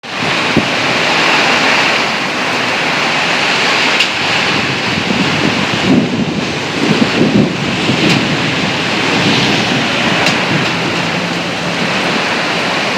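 Heavy rain pouring steadily in a thunderstorm, with a few sharp ticks about four seconds apart.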